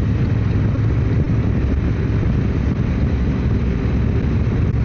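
Motorcycle engine running steadily on the highway, with wind noise over the microphone.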